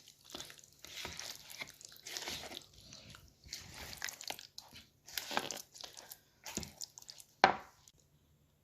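Wet, irregular squelching of chicken pieces being mixed into a thick yogurt and spice marinade, with a single sharp knock near the end.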